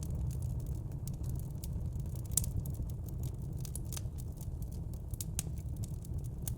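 Wood fire in a fire pit crackling, with frequent sharp pops and snaps over a steady low rumble; the loudest pop comes about two and a half seconds in.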